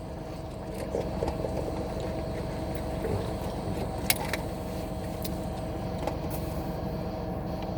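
Steady low rumble of an idling car engine with a steady hum over it, and a single sharp click about four seconds in.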